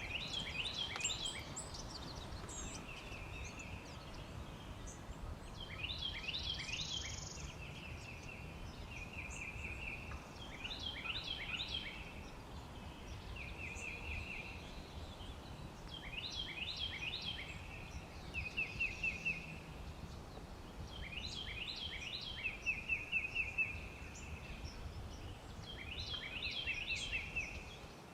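A songbird singing the same short phrase over and over, about every five seconds: a few quick falling notes followed by a rapid, even trill. A faint steady outdoor background runs underneath.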